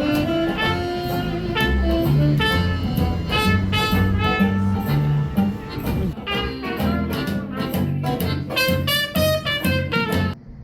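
Jazz music with saxophone and brass over a bass line, cutting off abruptly near the end.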